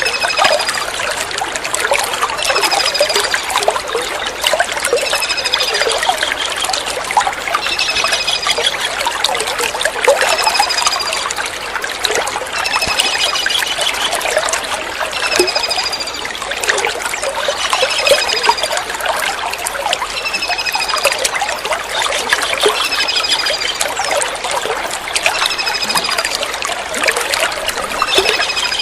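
Steady trickling water with a kingfisher's call over it: short, high, falling notes repeated about every one and a half to two seconds.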